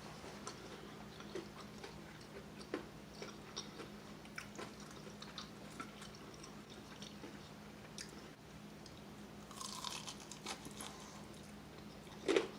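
Close-up chewing of crispy breaded fried chicken wings: scattered small crunches, with a denser run of crunching about ten seconds in. A faint steady low hum runs underneath.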